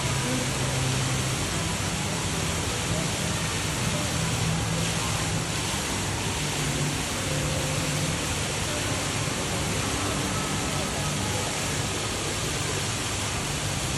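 Indoor decorative waterfall: a steady, even rush of falling water, with a murmur of voices beneath it.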